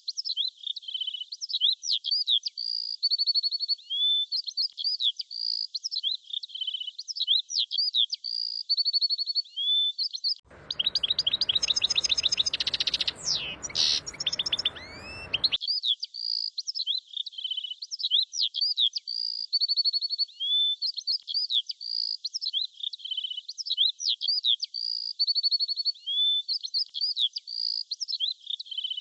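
Songbirds singing: a continuous run of short, high chirps, whistled notes and quick trills. About ten seconds in, for some five seconds, a fuller patch of rapid chirping with a rushing noise beneath it.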